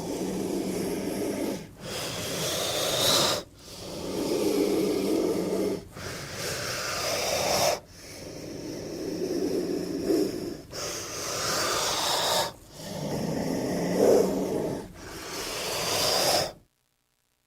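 King cobra growling: a run of about eight hoarse, breathy hisses, each lasting one and a half to three seconds with a brief break between. They stop abruptly about a second before the end.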